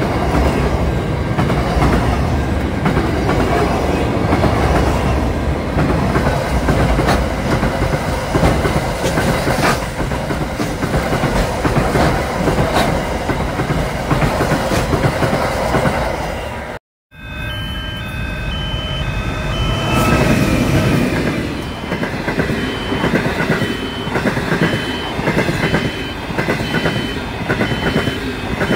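Freight train rolling past at close range: a steady rumble of wagon wheels on the rails with a regular clickety-clack over the rail joints. After an abrupt cut about two-thirds of the way through, a passenger train passes, with a high tone beeping on and off over the wheel noise.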